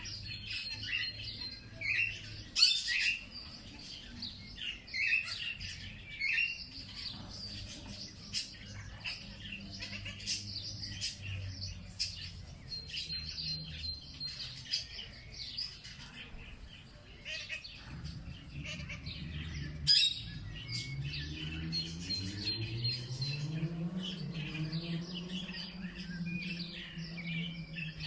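Many songbirds chirping and calling in quick, overlapping short notes. Underneath runs a low hum, and about two-thirds of the way in a low droning tone rises in pitch and then holds steady.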